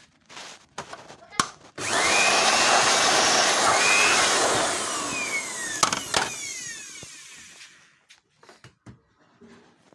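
A small electric blower motor switches on with a rush of air, runs steadily for about three seconds, then spins down with a falling whine and fades out. A few sharp clicks come just before it starts and as it winds down.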